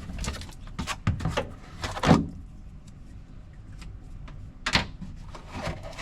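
Handling noises from fitting a piece of sound-deadening sheet into a car body: a string of short knocks, taps and crinkles, with a louder knock about two seconds in and another near five seconds.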